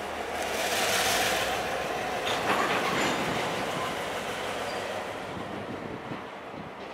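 Train running on the rails, the rumble and hiss of the cars growing loudest about a second in and then fading away.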